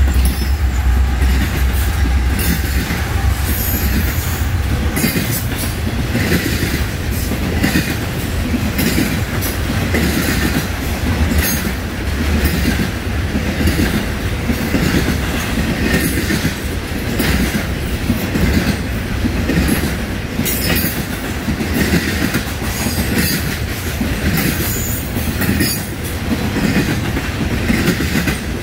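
Intermodal freight train cars, trailers and containers on flatcars, rolling past at close range: a steady rumble of steel wheels on rail, with wheel clicks over the rail joints coming about once a second.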